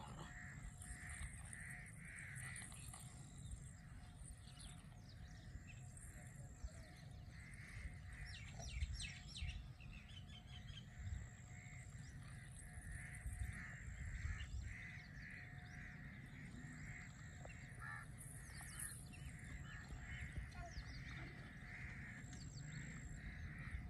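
Faint bird calls: one call repeating steadily about twice a second, with a short high note recurring every second and a half or so, and a few scattered chirps.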